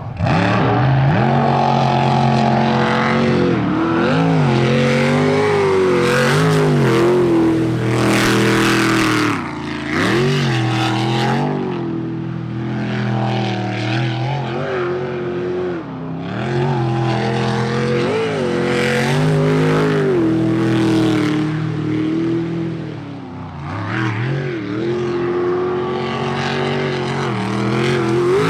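A jet sprint boat's racing V8 engine revving hard and backing off again and again as it throws the boat through the course's turns, its pitch climbing and dropping every second or two with brief lifts off the throttle.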